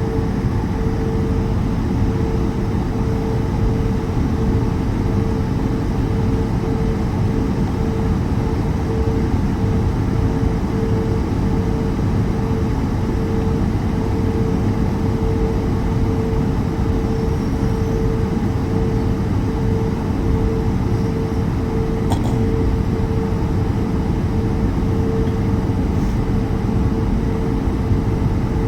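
Cabin noise of an Airbus A220 taxiing: the Pratt & Whitney PW1500G geared turbofans and airflow give a steady low rumble with a constant droning tone held over it.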